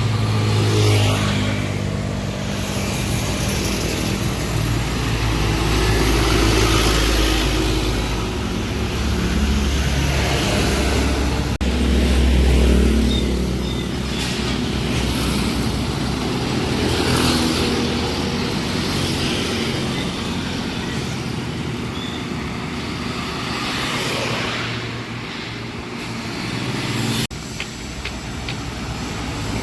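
Road traffic on a steep uphill grade: vehicle engines rumbling as several vehicles pass one after another, swelling loudest about a second in and again around twelve seconds in.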